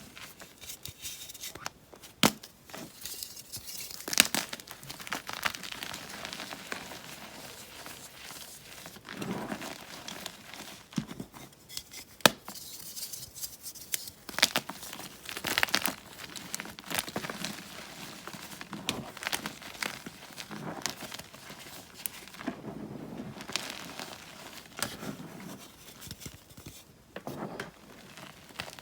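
Blocks of magnesium carbonate gym chalk being crushed and crumbled: a steady, irregular crunching and crackling, broken by sharp snaps a handful of times as pieces break.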